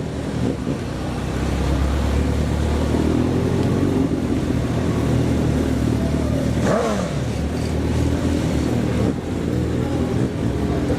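Motor vehicle engine running steadily during a ride, with a brief sweep in pitch up and down about seven seconds in.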